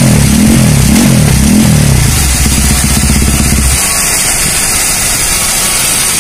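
Husqvarna FS450's single-cylinder four-stroke engine on a dyno, blipped a few times with the revs rising and falling, then idling until it is switched off a little before four seconds in. A steady rushing noise carries on after the engine stops.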